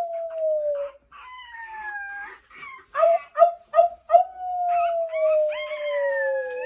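Dog howling in long, slowly falling notes, with a few short yips a little past the middle and a second, higher howl joining in near the end.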